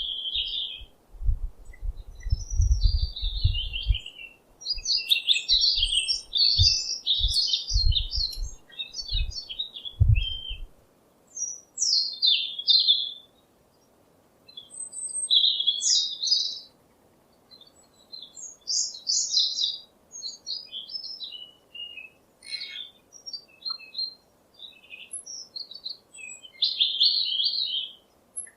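A songbird chirping and singing in short, quick, varied phrases with brief pauses between them. Low thumps or rumbles sound underneath during the first ten seconds or so.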